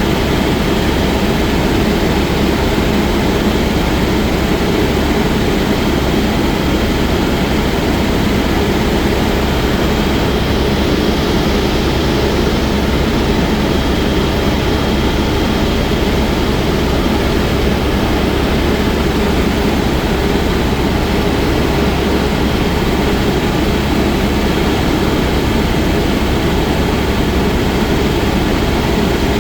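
Helicopter in flight: a loud, steady rush of engine and rotor noise with a faint, steady high whine over it.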